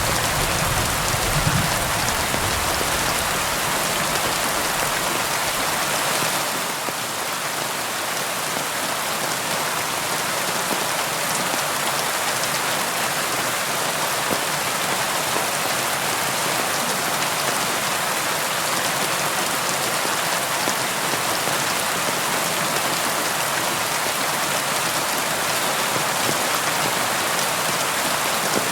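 Steady rain falling, an even hiss of drops on a surface. A low rumble fades out in the first couple of seconds.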